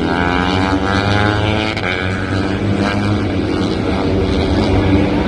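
Race motorcycles at high revs going past on the circuit. Several engines are heard at once, their pitch rising as they accelerate in the first couple of seconds.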